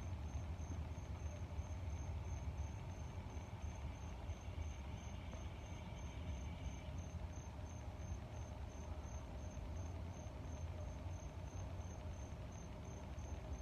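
Crickets chirping in a fast, even pulse of short high chirps, about three a second, over a low steady rumble of moving air.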